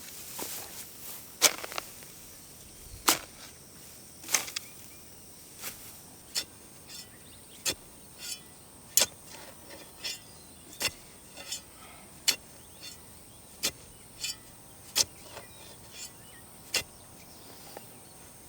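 Repeated sharp strokes of a hand tool working the ground or grass, roughly one every second, over a steady high-pitched insect drone.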